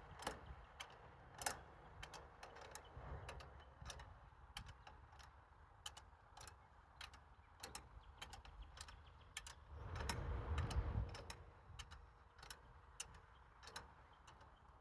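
Faint, irregular clicks and light taps, with a short low rumble about ten seconds in.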